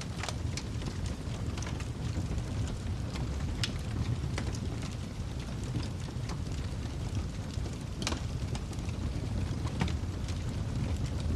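Wood fire crackling in a fireplace: a steady low rumble of the flames with scattered sharp pops. The strongest pops come just after the start, near four seconds, and near eight seconds.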